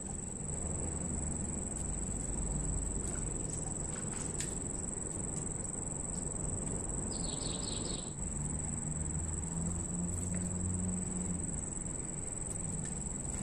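Insects droning steadily at a single high pitch over a low outdoor rumble. About seven seconds in, a short run of four quick chirps.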